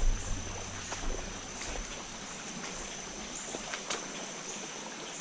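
River ambience: an even hiss of moving water with a steady high insect drone over it, and a few light clicks and knocks, the sharpest about four seconds in.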